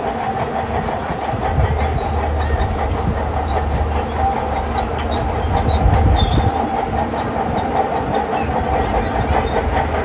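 Shantui crawler bulldozer's diesel engine running steadily under load, with the steel tracks clanking.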